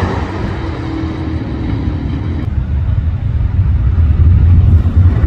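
Muscle-car engines rumbling at the drag strip's starting line, a heavy, uneven low rumble. Before that, the drone of the previous car fades as it finishes its pass, and the sound changes abruptly about two and a half seconds in.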